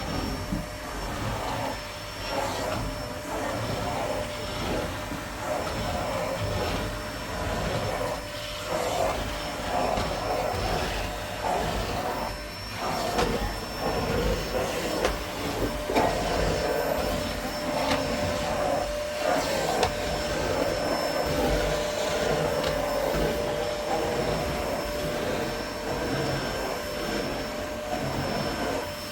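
Vacuum cleaner running continuously on carpet, with a steady hum and a loudness that rises and falls unevenly.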